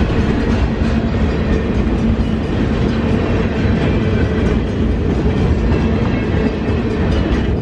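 A train rolling past at close range: a loud, steady rumble of wheels on the rails.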